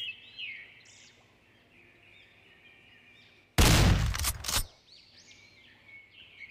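A single gunshot sound effect, sudden and loud about three and a half seconds in, dying away over about a second. Birds chirp faintly before and after it.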